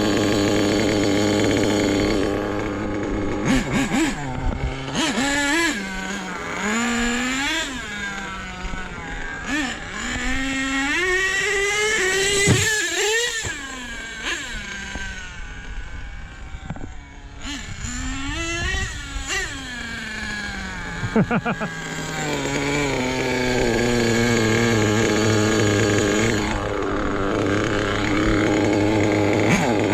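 Small nitro engine of a radio-controlled truck running. It revs up and down in repeated rising and falling sweeps through the middle, and holds a steady high-pitched note for the first couple of seconds and the last several.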